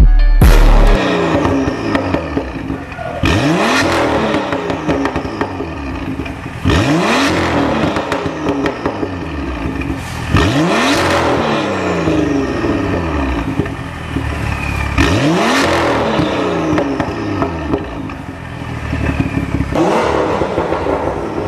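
BMW M2 F87's turbocharged straight-six through an iPE valved cat-back exhaust, revved about five times. Each rev climbs sharply in pitch and then falls back slowly, after a loud burst at the very start.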